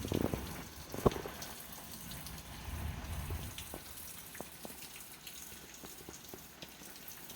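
Rain falling, with scattered drips ticking and one louder tap about a second in.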